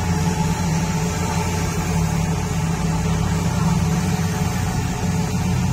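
Steady low drone of a heavy vehicle's engine running, with even road noise and no change in pitch.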